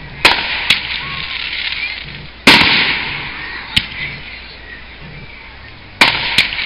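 Aerial firework shells bursting: a loud bang just after the start, another about two and a half seconds in and a third near the end, each followed by a smaller crack, with a hissing crackle fading away between them.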